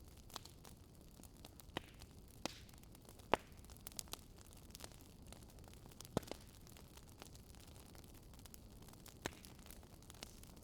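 Wood fire crackling: irregular sharp pops and snaps over a low steady hiss, the loudest pop a little over three seconds in.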